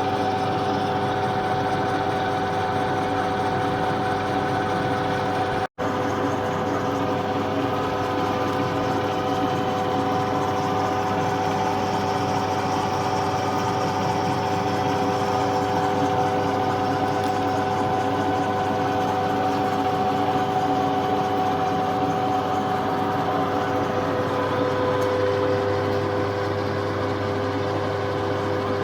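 Milling machine running steadily, its cutter milling a 20 mm slot in the end of a steel hydraulic ram, with a constant motor hum and steady whine; the sound drops out for an instant about six seconds in.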